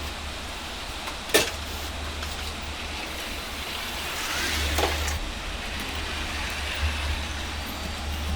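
Steady low engine rumble, with a sharp knock about a second and a half in and another near five seconds in.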